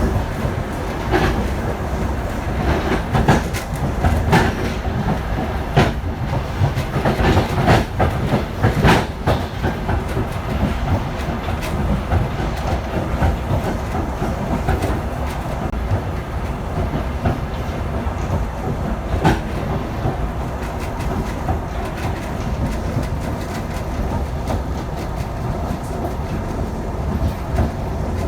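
Passenger train running on the rails: its wheels click over rail joints above a steady low rumble. The clicks come thick and loud for the first ten seconds or so, then thin out to a steadier rumble.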